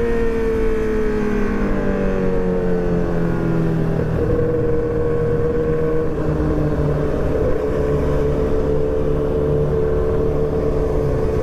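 Motorcycle engine heard while riding: its note slides slowly down for about four seconds as the bike eases off, then holds steady at a cruise, over constant wind and road noise.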